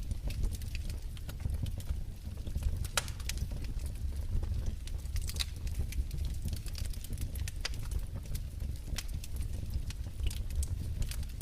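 Wood fire burning in a fireplace: a low steady rumble of the flames with irregular sharp crackles and pops, one louder pop about three seconds in.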